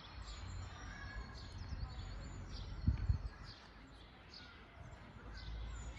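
Forest birds chirping and calling, many short high chirps and quick falling notes, over a steady low rumble. A brief low thump about three seconds in.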